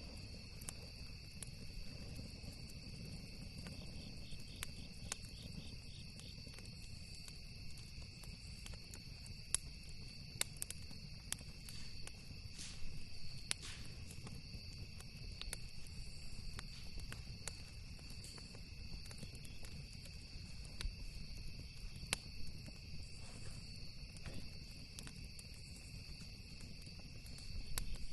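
Crickets trilling steadily at a high pitch, with scattered sharp crackles and pops from a wood campfire over a low steady rumble.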